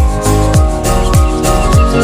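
Loud electronic dance music played through a 'sound horeg' loudspeaker rig, with deep kick drums that drop in pitch about twice a second under steady synth notes.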